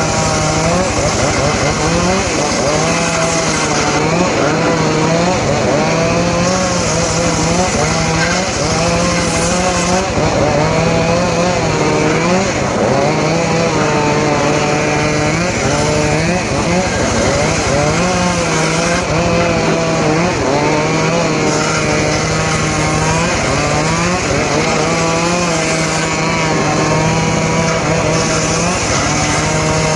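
Engine-driven saw running continuously under load while cutting johar wood, its pitch dipping and recovering again and again as it bites into the wood.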